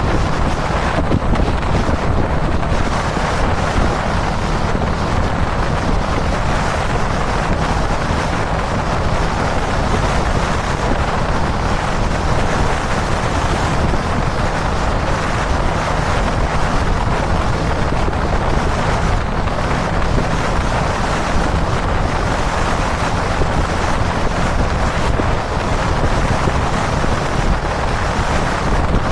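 Steady wind noise rushing over the microphone, with a motorcycle's single-cylinder engine running underneath at a steady cruise. The bike is a Kawasaki Dominar 400 UG2 riding on an expressway.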